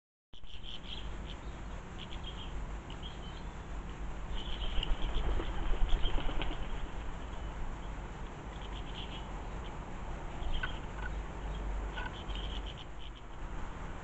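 Small garden birds chirping in short, high bursts around a seed feeder, with a louder run of rapid rustling about five seconds in. A steady low rumble lies underneath.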